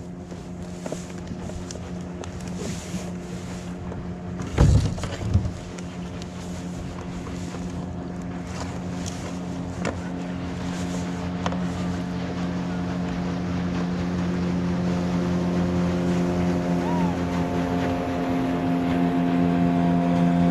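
Motorboat engine running steadily, growing gradually louder as the boat comes closer. A single loud knock about four and a half seconds in.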